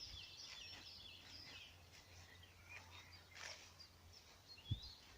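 Faint birdsong: several birds chirping and twittering with quick rising and falling notes. A single low thump comes near the end.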